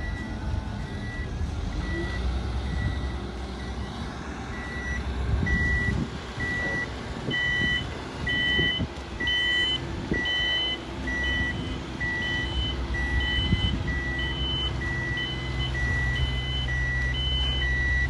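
Reversing alarm of a heavy construction vehicle beeping steadily, about one and a half beeps a second, over a diesel engine's low rumble. About seven seconds in, a second, higher beep joins and alternates with the first.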